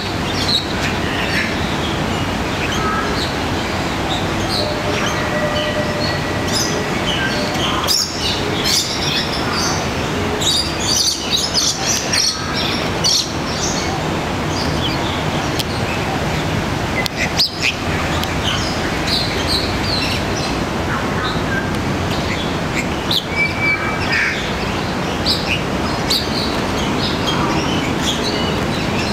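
Small birds chirping and calling in short, scattered notes, busiest about a third of the way in and again near the end. Under them runs a steady, even background noise.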